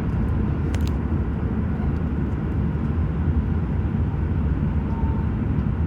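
Steady low rumble of a Kintetsu train running, heard from inside the passenger car, with one faint click about a second in.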